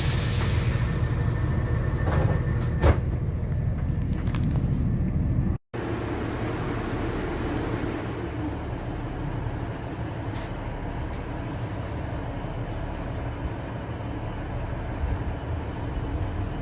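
Passenger train running, a steady low rumble with a few sharp clicks in the first few seconds. It cuts out for an instant about five and a half seconds in, then resumes.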